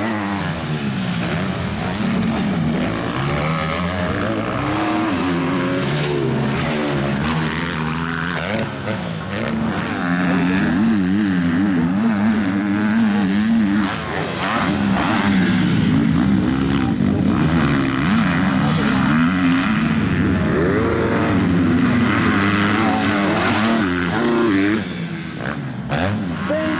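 Several motocross bikes racing, their engines revving up and down over one another through throttle changes and gear shifts.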